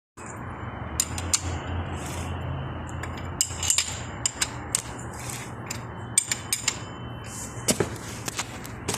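Car engine running with a steady low hum, overlaid by irregular sharp metallic clicks and knocks.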